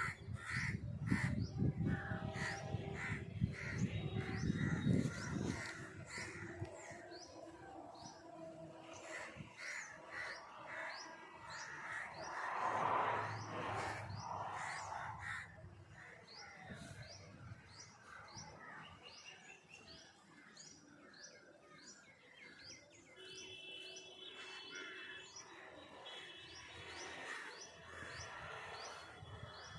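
A flock of crows cawing, with smaller birds chirping in rapid repeated calls. A low rumble runs under the calls for the first few seconds.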